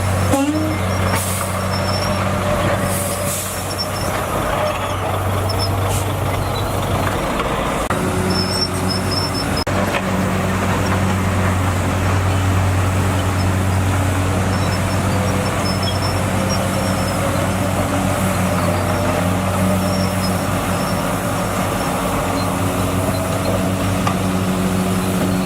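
Heavy earthmoving machine's diesel engine running steadily under work, its note shifting about a third of the way in, with a brief rising whine right at the start.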